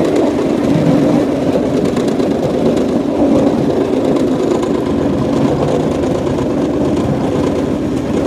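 Cambodian bamboo train (norry) running along its track, its small engine running steadily.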